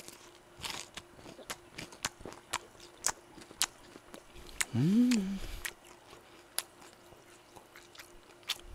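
Crispy fried chicken drumstick being chewed close to the mic, giving scattered sharp crunching clicks, the sign of a well-fried crust. About five seconds in the eater gives a short hum of enjoyment that rises and falls, the loudest sound here.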